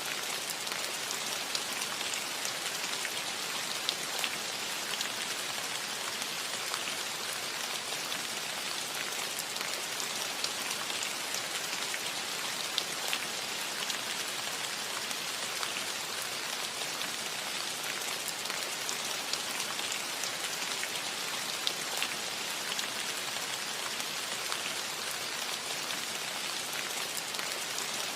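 Steady rain falling on a metal roof: an even hiss with many small, scattered drop ticks.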